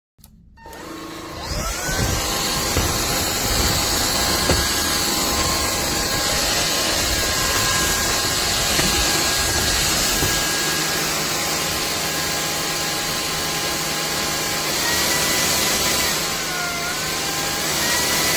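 Cordless stick vacuum cleaner switched on, its motor spinning up over a second or so, then running steadily with a high whine over a rushing hiss. A low rumble underneath drops away about halfway. Near the end the whine dips in pitch and comes back up.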